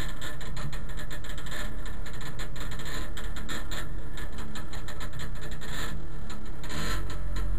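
Trabant race car's two-stroke twin engine running at low revs, heard from inside the cabin, with a rapid, uneven rattling patter over a steady low hum.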